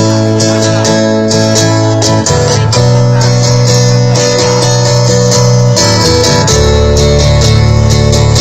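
Music played loud through a large mobile disco sound system during a sound test: held chords over a deep bass note, with a chord change about two seconds in and another, with a heavier bass, about six and a half seconds in.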